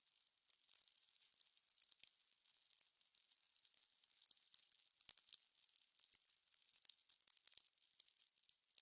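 Wood fire crackling: a steady run of irregular small pops and snaps over a soft hiss.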